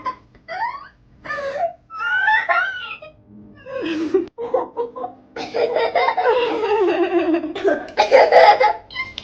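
People laughing in a run of short bursts that grow into longer, louder laughter in the second half.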